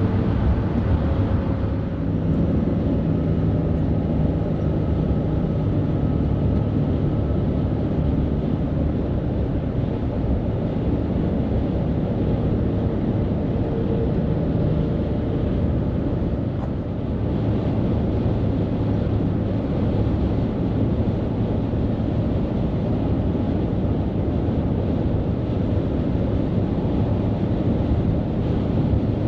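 Highway traffic: a steady rumble of heavy trucks and tyres on the road, with an engine drone standing out through the first half.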